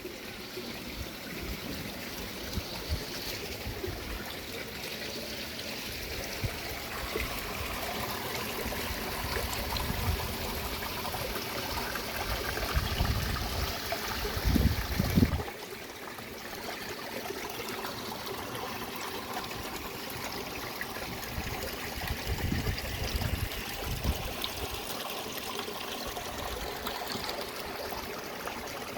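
Steady running water, like a stream or water channel flowing. A low rumble builds toward the middle and cuts off suddenly about halfway through.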